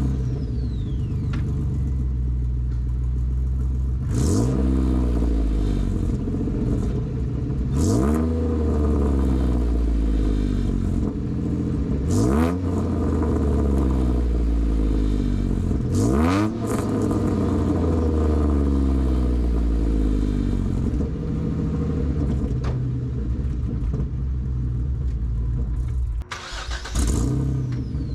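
A 2007 Jeep Wrangler JK's 3.8-litre V6 running through long-tube headers and only a cherry bomb glass pack, with no cats or resonators. The pipe is slipped on rather than sealed, so it leaks. The engine idles and is revved four times, about four seconds apart, each rev climbing and falling back to idle.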